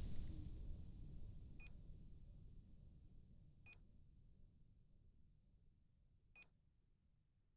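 A low rumble fading away, then three short, high, bell-like pings a couple of seconds apart, each clean and bright.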